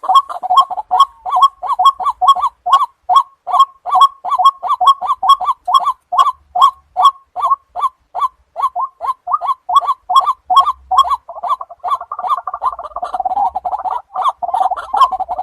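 Waterhen calling: a rapid, unbroken series of short call notes, about four a second. The notes crowd together and overlap for a couple of seconds about twelve seconds in.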